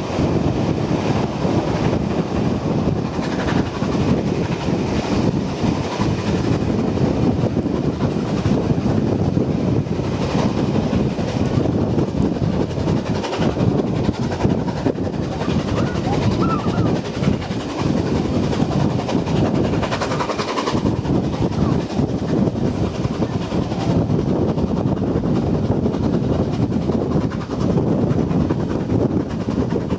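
Heritage train hauled by steam locomotive 3642 running along the line: a steady rumble of wheels and carriages on the track.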